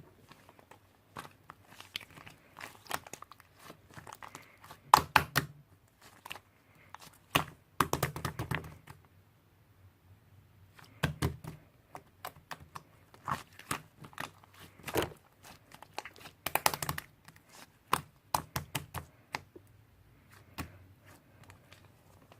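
Irregular handling noises: sharp clicks, taps and short rustles, several louder knocks about five, eight, eleven and seventeen seconds in.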